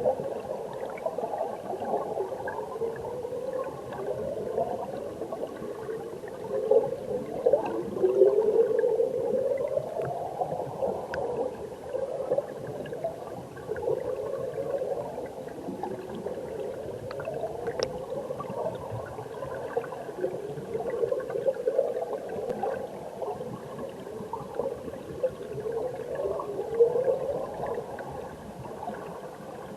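Stream water heard underwater: a muffled, continuous burbling and gurgling of current and bubbles, full of short rising warbles.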